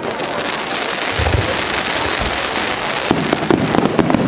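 Aerial fireworks bursting overhead: a dense crackling hiss, with low booms a little over a second in and again about two seconds in, then a rapid run of sharp crackles from about three seconds in.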